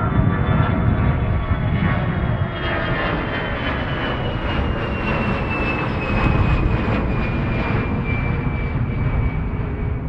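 Jet airliner's engines at takeoff power: a loud, steady rumble with a high whine that slowly falls in pitch.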